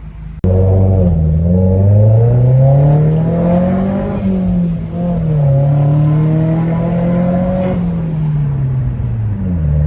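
Car engine accelerating hard, its note climbing through the revs, with a gear change about four seconds in, then rising again and easing off near the end. The sound starts abruptly about half a second in.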